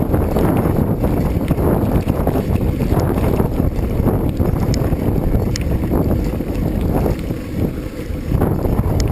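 Wind buffeting the microphone: a dense, steady low rumble, with a few faint ticks.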